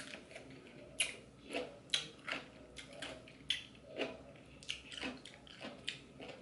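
Close-up chewing of a crunchy dill pickle: sharp wet crunches about twice a second.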